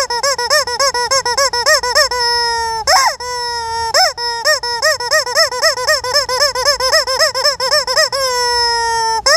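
Squeaky rubber chicken toy squeezed over and over: quick pitched honks about four or five a second, broken by a few long drawn-out notes, the last one sagging slightly in pitch near the end.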